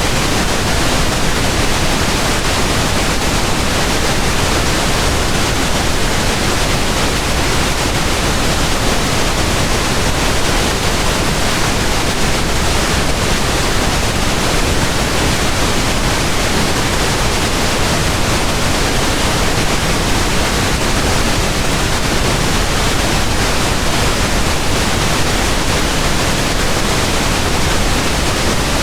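Steady pink noise: an even, unchanging hiss across the whole range, without tones or breaks.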